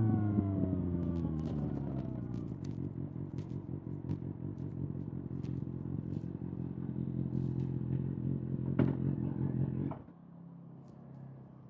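Kawasaki ZX-6R inline-four engine through an SC-Project SC-1R exhaust, its revs dropping back to a steady, pulsing idle. There is a sharp click just before the engine stops abruptly about ten seconds in, as it is switched off.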